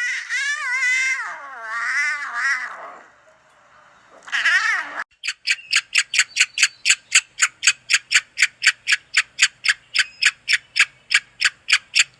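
Cat caterwauling: a long wavering yowl that falls in pitch, then a short second call. From about five seconds in comes a fast, even run of short high-pitched pulses, about four a second.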